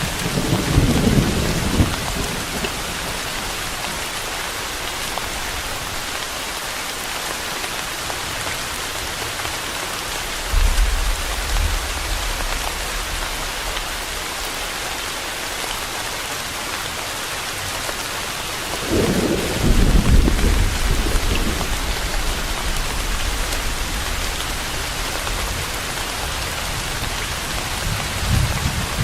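Steady rain falling, an even hiss, with low rumbles of thunder rolling in four times, the longest about two-thirds of the way through.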